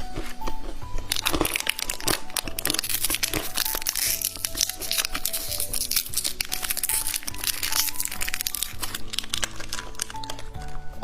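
Plastic candy packaging crinkling and crackling in the hands, in dense irregular bursts, heaviest in the first few seconds. Light background music with a simple melody plays underneath.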